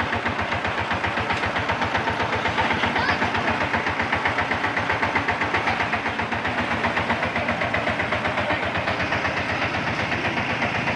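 Single-cylinder diesel engine of a two-wheel walking tractor running with a steady, rapid, even chug.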